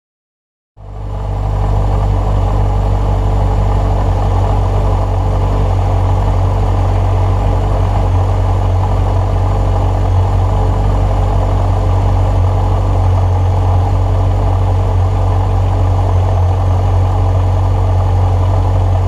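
2016 Corvette Z06's supercharged LT4 V8 idling steadily. It comes in about a second in.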